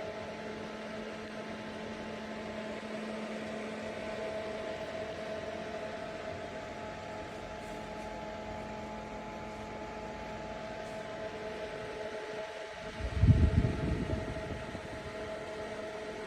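Small portable air cooler's fan running steadily with a motor hum. About thirteen seconds in comes a brief louder low rumble.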